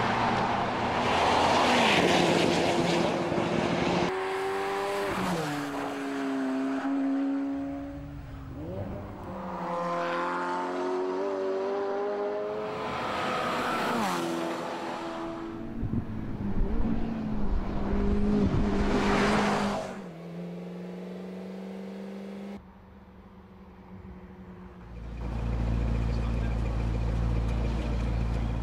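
McLaren MP4-12C prototype's twin-turbo V8 accelerating hard several times, its pitch climbing and then dropping back at each upshift, with a car passing by at speed. Near the end it gives way to a lower, steadier engine rumble.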